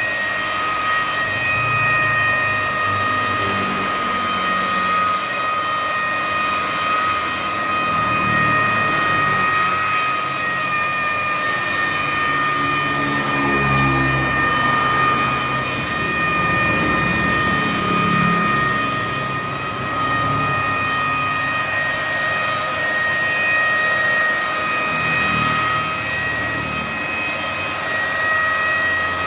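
Electric car paint polisher running steadily, with a constant high-pitched motor whine over a dense hiss.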